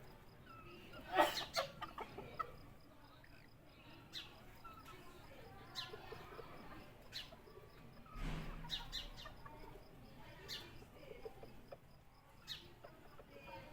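Fowl calling in short, scattered clucks and chirps, with a louder burst about a second in and another, with a low thump, around eight seconds in.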